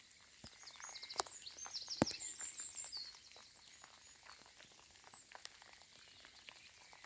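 A songbird sings a quick run of high, trilled notes for about two and a half seconds, then stops. Scattered soft ticks of raindrops fall throughout over faint outdoor background noise.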